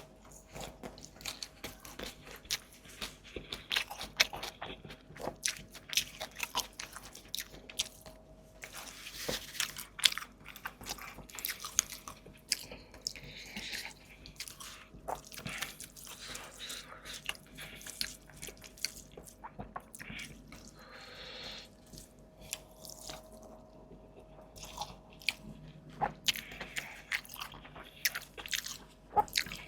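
Close-miked eating: a person biting and chewing food, with frequent irregular crunchy clicks and crackles.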